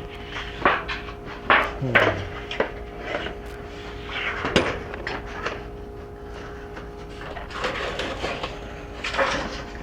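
Materials and tools being handled during hand construction work: a string of sharp knocks and clatters with rustling between them, and a short falling creak about two seconds in, over a faint steady hum.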